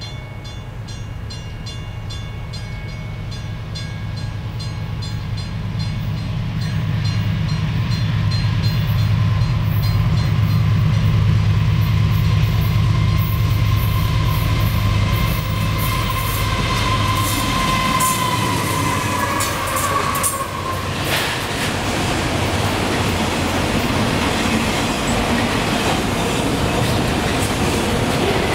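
CSX freight train passing: the diesel locomotives' engine rumble builds as they approach and go by, then the autorack cars roll past with steady wheel and rail noise. About two-thirds of the way through, a high ringing tone and a few sharp clacks rise over it.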